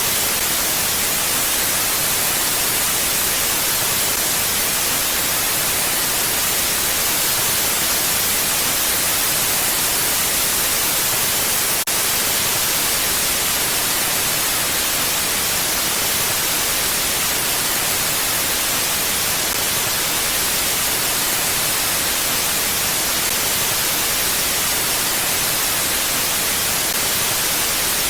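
Steady hiss of mountain wind ambience, even and without gusts, weighted toward high pitches, with a faint click about twelve seconds in.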